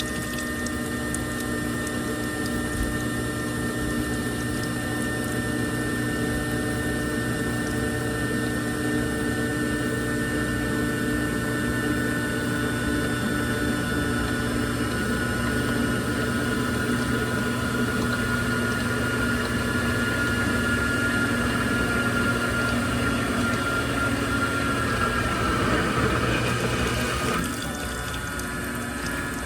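Washing machine running, with water flowing and a steady hum. About two seconds before the end the sound drops and changes.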